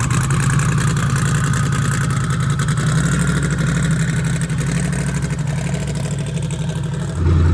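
Twin-turbo 427 Dart-block V8 of a drag-built El Camino running at a lumpy low-speed idle as the car rolls slowly away, getting a little quieter. Just before the end it is suddenly louder and closer.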